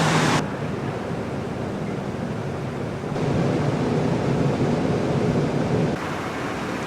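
Low, steady rumbling noise on board a ship, with no distinct events; its level jumps abruptly about half a second in, again near three seconds and near six seconds.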